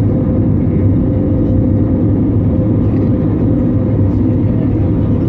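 Steady drone inside the cabin of an Airbus A320neo in flight, from its engines and airflow, with a low hum.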